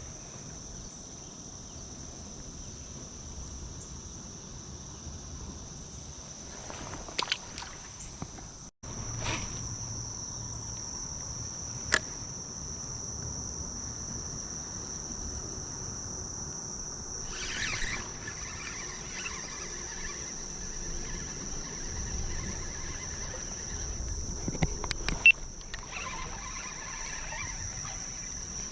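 Steady high-pitched insect chorus, a continuous trill of the kind crickets make, with a few short sharp clicks, the loudest about twelve seconds in and again around twenty-five seconds.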